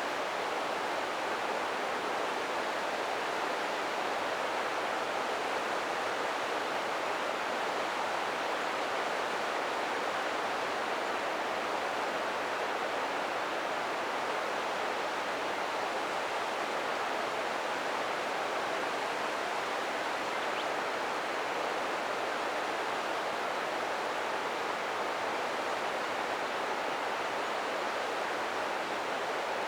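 Steady rush of a river's current flowing over rocks, an even wash of water noise with no breaks.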